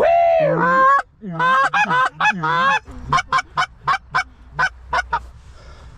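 Canada goose calling: a long arched honk, then a quick string of honks, then from about three seconds in a fast run of short clucks.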